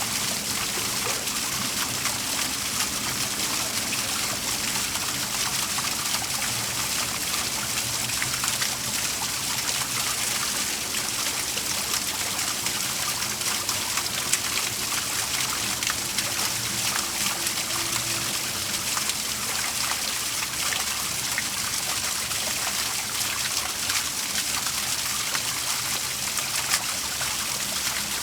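Small waterfall splashing and trickling in a steady, even rush of falling water.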